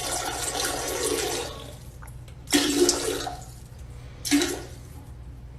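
Rushing water that dies down about a second and a half in, followed by three short splashing bursts.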